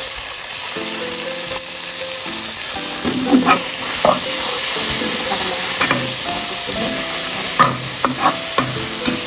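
Pieces of raw chicken frying in hot oil in a pan, with a steady sizzle, while a spatula stirs them and scrapes and knocks against the pan several times from a few seconds in.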